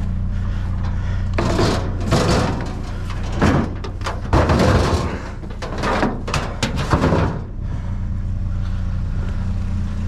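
Junk being pulled and shifted about inside a metal dumpster: a string of irregular clattering and scraping noises for about six seconds, over a steady low hum.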